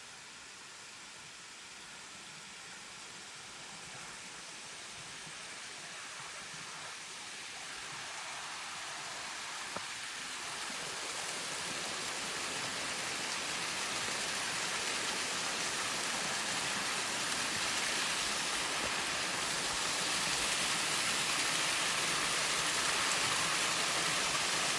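Steady rushing of running water, growing gradually louder throughout.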